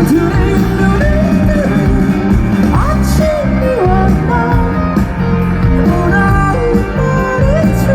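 Live rock band performance at full volume: a singer's melody over band accompaniment, with the sound steady and dense throughout.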